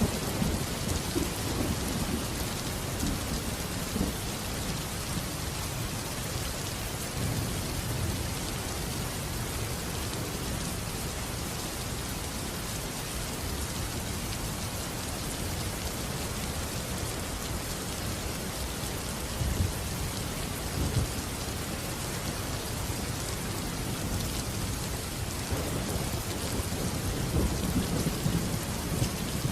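Steady rain falling, with low rolling thunder rumbling in the first few seconds and again near the end.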